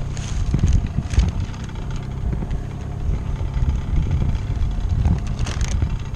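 Wind buffeting the microphone as a gusty low rumble aboard a small sailboat, with a few brief rustles or clicks.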